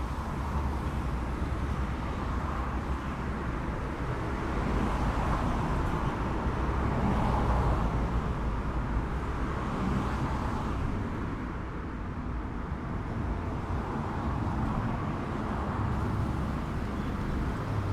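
Road traffic noise: a steady low rumble, with passing vehicles swelling louder and fading, loudest about halfway through.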